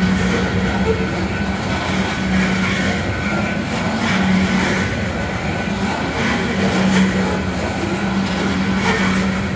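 Loaded coal train's cars rolling past: a steady noise of steel wheels on the rails, with a low hum that comes and goes.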